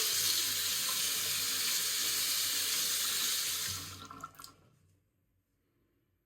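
Water running hard from a tap into a sink, stopping about four seconds in, with a couple of small knocks as it ends.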